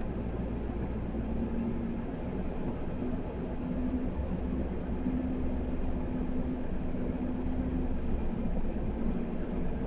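Ford ambulance-conversion truck driving slowly, its engine and running noise a steady low rumble with a faint steady hum over it.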